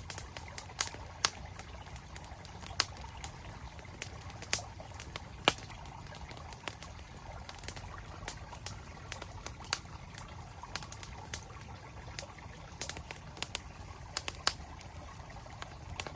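Wood campfire crackling, with sharp irregular pops and snaps, over the steady rush of a flowing mountain stream.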